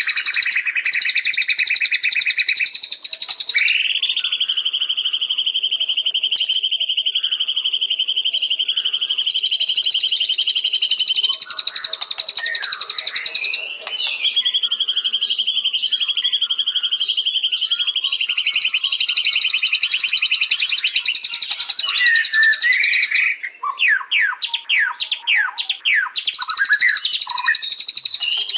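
White-rumped shama (murai batu) singing: long rapid trills held for a few seconds each, switching between a high and a lower pitch, with short gaps of scattered notes between them. About two-thirds of the way through comes a run of quick falling whistles before the trilling resumes.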